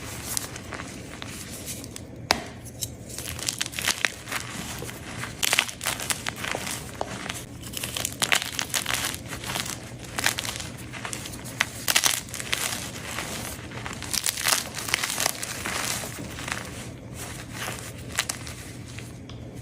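Blocks of gym chalk being crushed and crumbled, a dense run of irregular dry crunches and crackles with some sharper, louder snaps, over a faint low hum.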